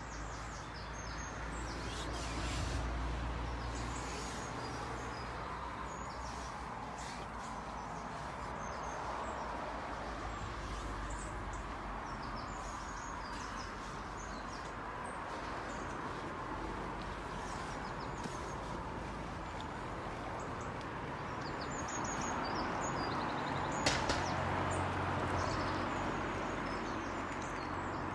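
Outdoor ambience: scattered short bird chirps over a steady wash of noise and low rumble, with one sharp click about 24 seconds in.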